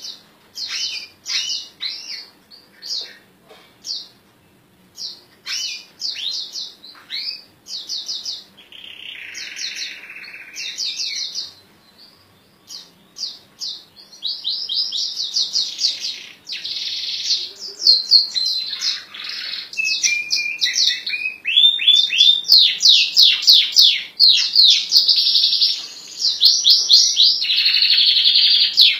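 A songbird singing a fast, loud song of sharp high chirps and rapid trills, with a harsh rasping note about a third of the way in. The song grows denser and almost unbroken in the second half.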